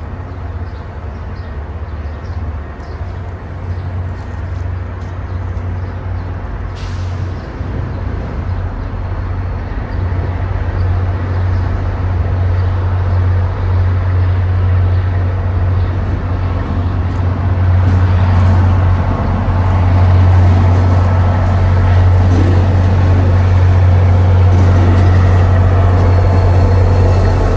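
Diesel engine of an MBTA GP40MC locomotive running with a steady low drone as the train pulls away. It grows louder from about ten seconds in and again near twenty seconds as the locomotive throttles up.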